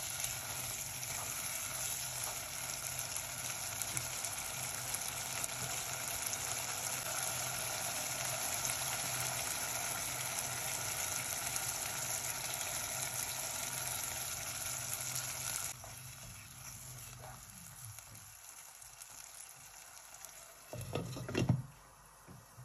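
Mutton curry sizzling and frying in a pot while a silicone spatula stirs it. About three-quarters of the way through the sizzle cuts off suddenly and it goes much quieter, then near the end comes a short, loud clatter as the glass lid is set on the pot.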